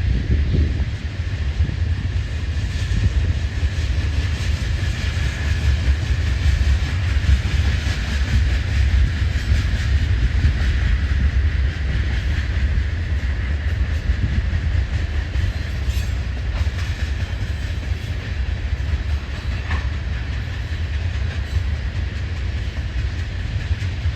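BNSF ethanol unit train rolling past: a steady, loud, deep rumble with a continuous rail noise above it.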